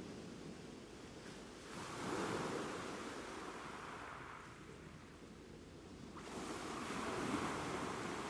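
Ocean waves breaking and washing up: two waves crash, about two seconds in and again about six seconds in, each surge of surf fading slowly into the wash.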